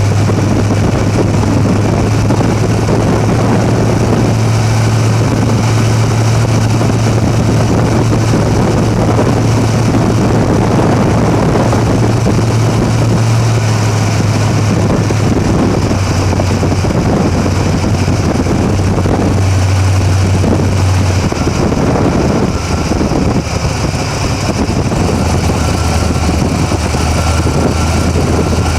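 Drag-racing Camaro engine running steadily at low speed, heard from the engine bay with a loud, even low drone. The pitch drops slightly about twenty seconds in.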